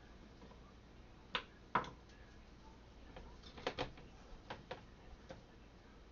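Light knocks and clicks of cucumbers and a glass jar being handled while the jar is packed with whole pickling cucumbers: two single knocks, then a quicker cluster of several more.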